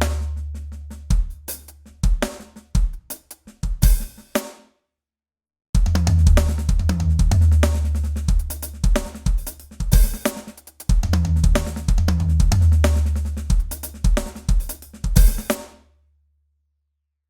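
Drum kit played in fast gospel-chop phrases: quick runs of snare, tom and kick hits over a deep, ringing low boom, each phrase ending on a cymbal crash. The playing cuts off suddenly twice, about four and a half seconds in and near the end.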